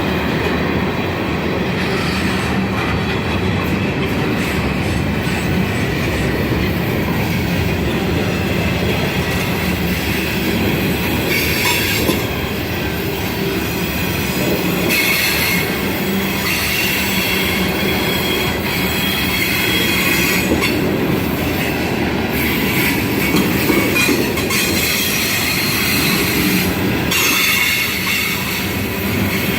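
Railroad cars of a passing train rolling by steadily, steel wheels on rail, with high wheel squeal coming and going several times.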